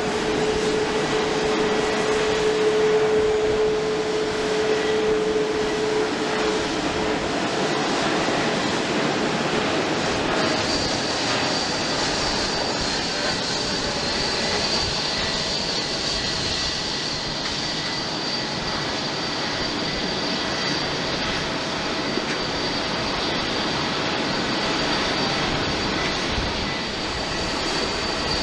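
Jet engine noise from a Boeing 787-9 airliner's Rolls-Royce Trent 1000 turbofans, running steadily, with a high whine that comes in about ten seconds in.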